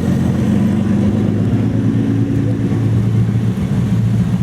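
Car engine running steadily at low speed, a deep, even hum.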